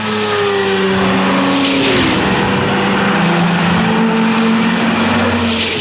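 High-performance cars fitted with Akrapovič exhaust systems driving past at speed, their engine notes falling in pitch as they go by. Two louder passes come about two seconds in and near the end.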